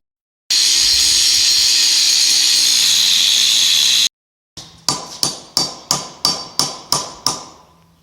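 A loud, steady hiss lasts about three and a half seconds between two short cuts to dead silence. Then come hammer blows on steel, about three a second and ringing after each strike, as pins are driven on a John Deere 530 round baler.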